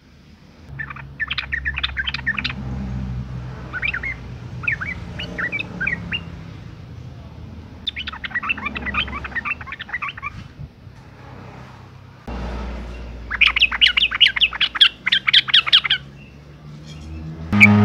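Yellow-vented bulbul (trucukan) calling in quick chattering bouts of chirps, five bursts a few seconds apart, over a low steady hum. It is presented as the call of a female in breeding condition calling to males.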